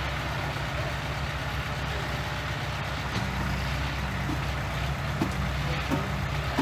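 Heavy diesel engine of a construction machine running steadily at low revs, its note shifting slightly about three seconds in, with a few faint clicks in the second half.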